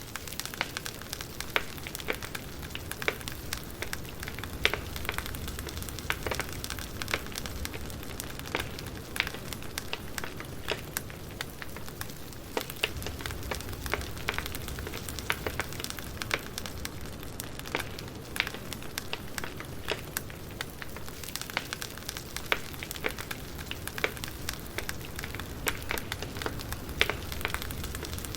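Wood fire crackling, with irregular sharp pops and snaps over a steady low hiss of burning logs.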